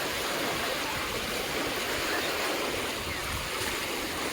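Ocean surf washing onto the beach, a steady rush of water.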